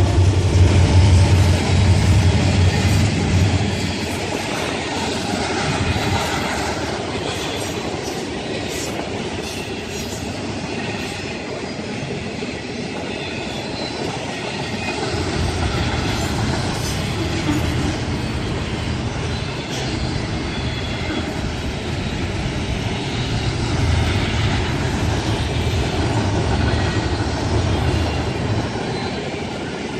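Train passing on the tracks: a steady rumble and rattle of rolling railcars, with wheels clacking over rail joints and some wheel squeal. A deep low rumble is strongest in the first few seconds and again from about halfway through.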